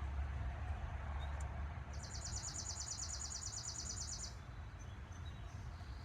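A small bird gives one high-pitched, rapid trill of evenly spaced notes for about two seconds, starting about two seconds in and stopping abruptly, over a steady low outdoor rumble.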